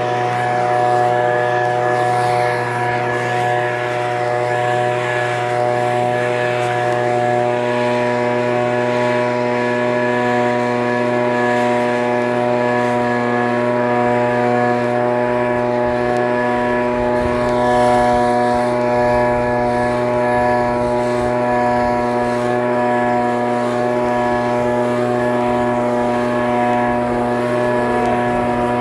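Echo PB-2620 handheld leaf blower's small two-stroke engine running at a steady speed, its pitch holding even throughout.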